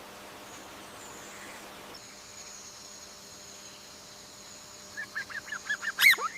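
A steady, high insect-like buzz sets in about two seconds in. Near the end a bird gives a quick run of short chirps, then one loud call that sweeps down in pitch.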